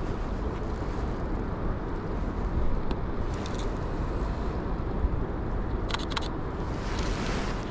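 City traffic noise: a steady low rumble of road vehicles with a few passing swells, and a brief run of sharp clicks about six seconds in.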